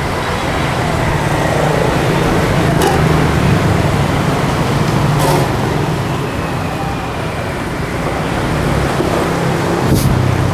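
Steady street traffic with motorbike and car engines running past, and a few sharp clicks or knocks.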